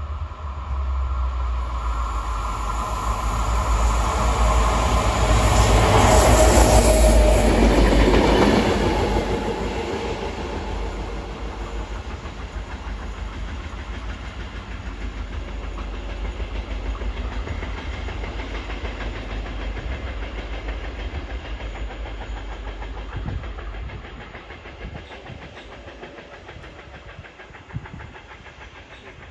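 Diesel-hauled train made up of an MZ diesel locomotive and a TME unit passing through the station. It grows loudest about seven seconds in as it goes by, with wheels running on the rails and a falling pitch. A low engine rumble follows and fades out about 24 seconds in.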